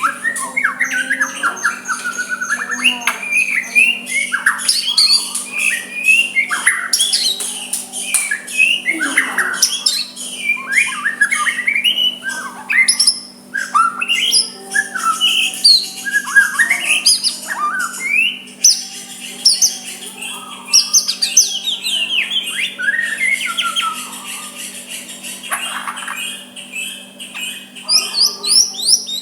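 White-rumped shama (murai batu) singing: a long, unbroken run of varied whistles, slurred glides, chirps and harsher notes. A steady low hum runs underneath.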